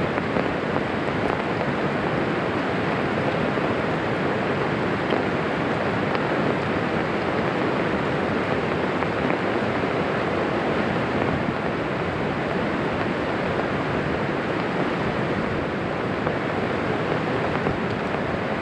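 Heavy rain falling steadily on an umbrella, a dense even hiss with no letup.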